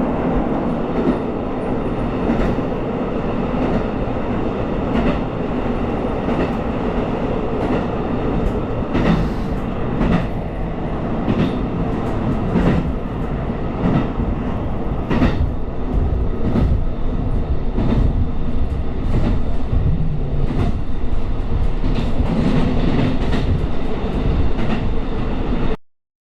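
Diesel train running along the track, a steady rumble with wheels clicking over rail joints every second or so. The sound cuts off abruptly near the end.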